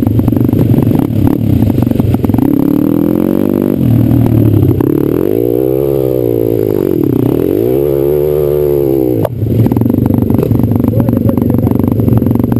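Pit bike's single-cylinder engine under way, the revs climbing for a couple of seconds, then rising and falling twice in smooth swells before settling to a steady pitch with a sudden change about nine seconds in.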